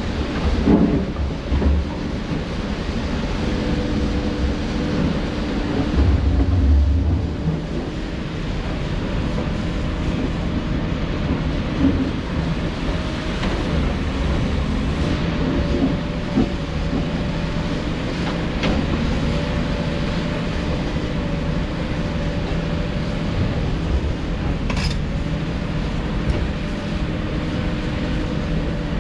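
Heavy construction machinery's diesel engine running steadily, with deep rumbles about a second in and again around six seconds, and a few sharp knocks later on.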